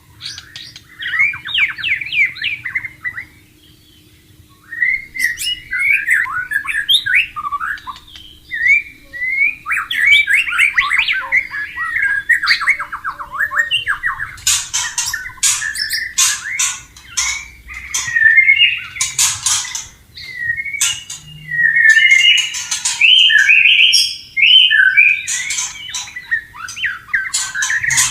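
White-rumped shama (murai batu) singing a long, varied song of rapid whistled phrases and fast trills, with harsh rasping notes mixed in midway and one short pause about four seconds in.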